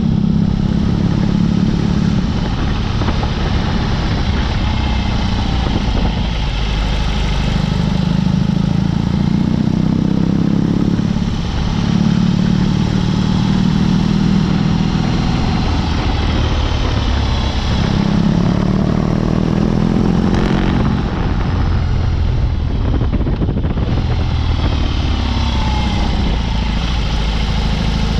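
BMW R18's big boxer twin running under way through a Dr. Jekill & Mr. Hyde exhaust. Its note falls and rises in stretches, with a few brief dips and climbs in pitch as the bike pulls away again.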